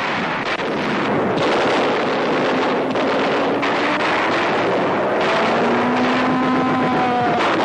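Loud steady rushing engine noise of boats at sea mixed with wind, with a faint droning tone that slowly glides in pitch in the second half.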